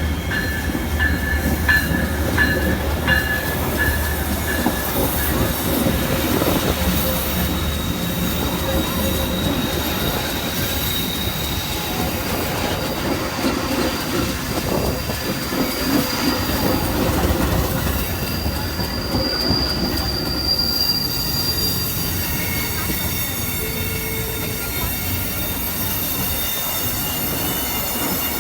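Train rolling past on the rails with steel wheels squealing in thin, high, drawn-out tones over a steady rumble and rattle of the cars.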